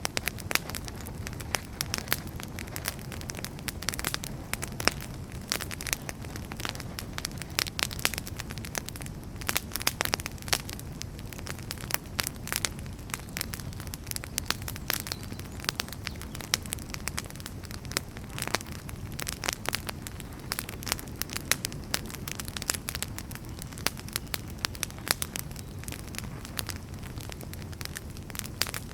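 Wood fire crackling in a fireplace: a dense, irregular run of sharp pops and snaps, some much louder than others, over a steady low rumble of the burning logs.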